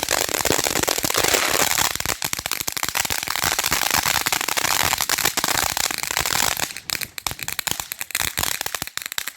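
Consumer firework going off with a dense, rapid crackling of many small reports, thinning into scattered pops in the last couple of seconds before it stops.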